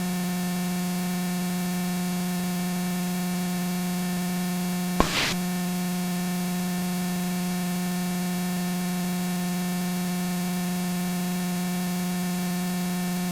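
Steady hum with hiss on the aircraft's radio and intercom audio feed, with one brief burst about five seconds in.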